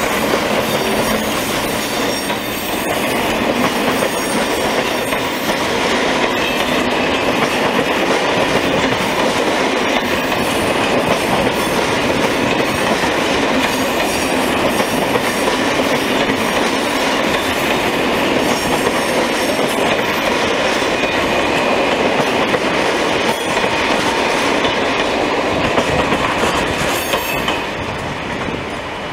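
Train of passenger coaches behind an electric locomotive rolling past at low speed over station pointwork. Steady wheel-on-rail running noise with clatter from the rail joints and points, easing slightly near the end.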